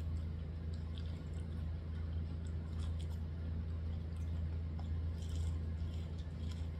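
A person biting kernels off a buttered corn cob and chewing, with small wet crunches and clicks over a steady low hum.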